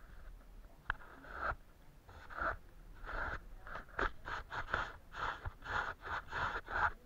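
Paintbrush strokes scratching across paper: a few spaced strokes and a sharp tap about a second in, then quicker short strokes, about three a second, in the second half.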